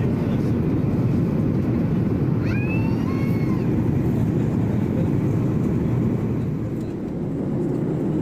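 Boeing 737 MAX jet airliner heard from inside the cabin during takeoff: a loud, steady low rush of engine and airflow noise that eases slightly about seven seconds in. A brief warbling, higher-pitched sound rises over it about two and a half seconds in.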